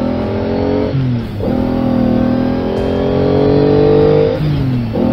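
Car engine sound effect revving up through the gears. Its pitch climbs, drops at a gear change about a second in, climbs again for about three seconds, and drops at another shift near the end.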